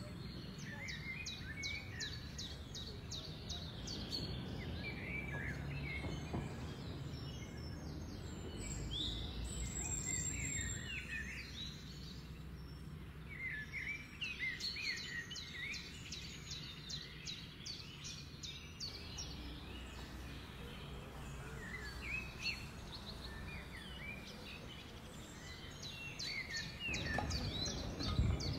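Outdoor ambience of many birds chirping and calling, with quick runs of repeated high notes, over a steady low background rumble.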